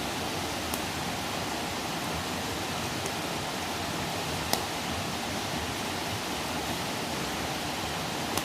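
Wood campfire burning: a steady rushing hiss with a few sharp crackles and pops, the loudest about four and a half seconds in.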